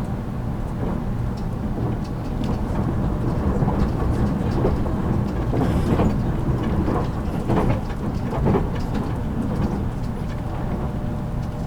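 JR Kyushu 783 series limited express motor car running at speed: a steady rumble of wheels on rail. Between about four and nine seconds in it swells, with a run of sharp knocks and clatter.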